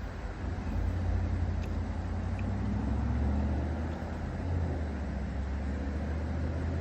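Low, steady motor-vehicle engine rumble that grows louder about a second in.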